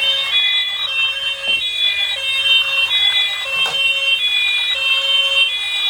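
A battery-powered toy police jeep's electronic siren sound, in high beeping tones that jump between pitches every fraction of a second.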